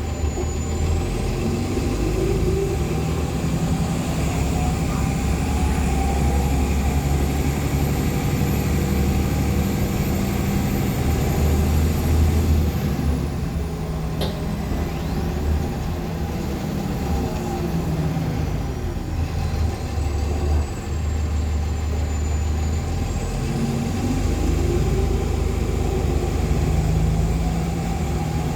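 A 2014 NOVA LFSA HEV articulated hybrid bus with a Cummins ISL9 diesel, heard from onboard under way. A low engine drone runs under whines that rise as the bus pulls away. A thin, high turbo whistle climbs and holds for several seconds, falls away about halfway through, and rises again near the end. A single sharp click comes about halfway through.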